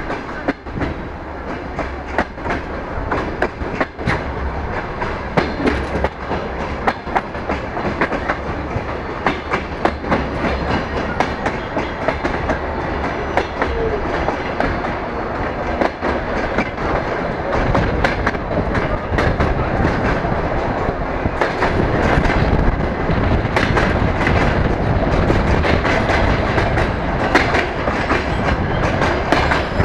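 DR1A diesel multiple unit running along the line, heard through an open carriage window: a steady rumble with wheels clicking over the rail joints, louder in the last third.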